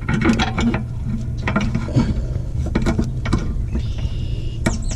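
Irregular metallic clicks and clinks of a lawn tractor mower deck's spring-loaded adjuster pulley and its tension spring being pushed and worked by hand, over a steady low hum.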